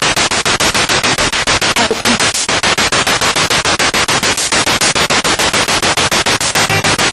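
Spirit box radio sweeping through stations: loud static hiss chopped into rapid pulses about ten times a second, with brief fragments of broadcast sound.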